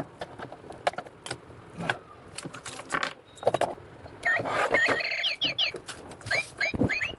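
Battery-operated toy bird chirping: a quick run of short, curving whistled chirps starts about four seconds in and keeps repeating. Before it come scattered sharp clicks and knocks.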